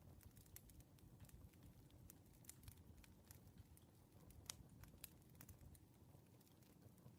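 Faint wood fire crackling: irregular sharp pops and snaps over a low, steady rumble.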